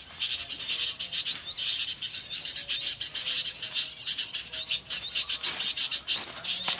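Small birds chirping and twittering without a break: short, high rising notes repeated several times a second over a dense, higher ticking chatter.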